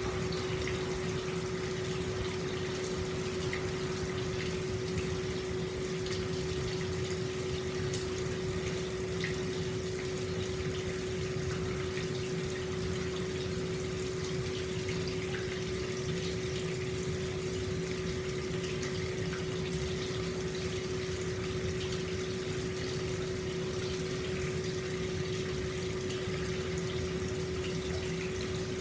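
Hot spring water flowing steadily into an outdoor bath, with a constant humming tone underneath.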